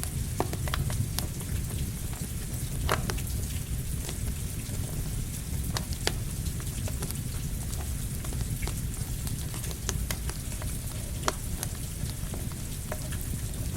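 Steady rain mixed with a crackling campfire: a constant low rumble and hiss with scattered sharp pops and crackles.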